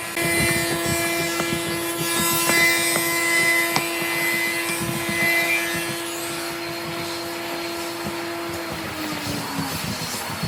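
Power tool's electric motor running at a steady pitch while wood is worked, with irregular scraping and knocks; about nine seconds in, the pitch slides down as the motor winds down after being switched off.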